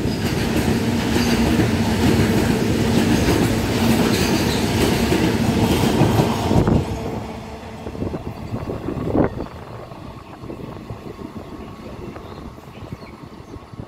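Freight train wagons rolling past close by, steel wheels clattering over rail joints. About seven seconds in, as the last wagon, the brake van, goes by, the noise drops away to a much quieter low rumble with scattered clicks and one sharper knock.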